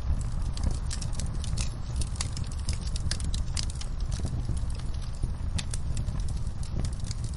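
Wood fire in a fireplace crackling: many quick, irregular pops and snaps over a steady low rumble of the flames.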